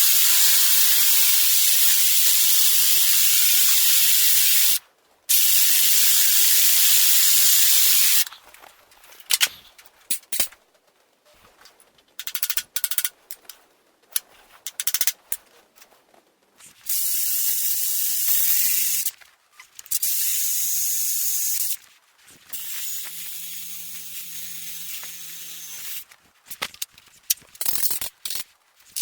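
Compressed air hissing in bursts of a few seconds each: two long loud bursts near the start, then scattered clicks and knocks, then three shorter bursts, the last one quieter.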